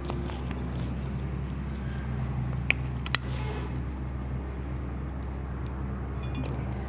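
Steady low background hum, like traffic or a running motor, with two light clicks near the middle.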